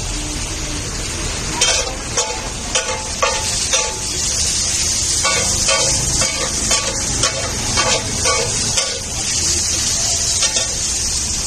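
Chopped tomatoes, peas and capsicum sizzling on a large flat tawa griddle while a flat metal spatula chops and mashes them, clanking against the griddle about twice a second for several seconds, with a last strike near the end.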